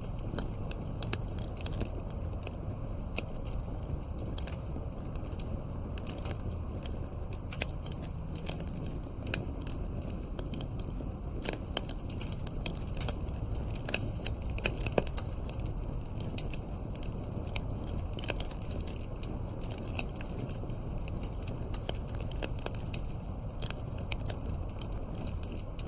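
Campfire burning, with a steady low rumble of flame and irregular sharp crackles and pops from the burning wood.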